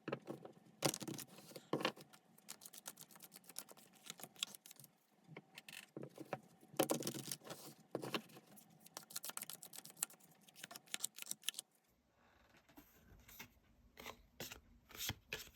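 Tarot cards being shuffled and handled: a dense run of quick papery clicks and rustles, thinning to a few scattered clicks about twelve seconds in.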